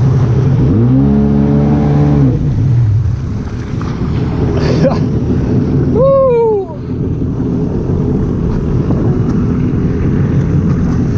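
Jet ski engine running steadily under a haze of wind and water noise. About a second in, a pitched sound rises and falls over two seconds, and around six seconds a brief high-pitched cry falls away.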